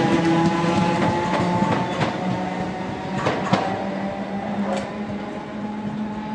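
Class 319 electric multiple unit pulling out, its traction motors humming with a slightly rising tone while the wheels clack a few times over the track; the sound slowly fades as the train moves away.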